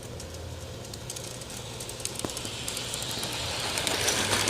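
G-scale garden model train running on outdoor track: a steady low motor hum with wheels clicking over the rails and a rising hiss, growing louder as the train comes closer near the end.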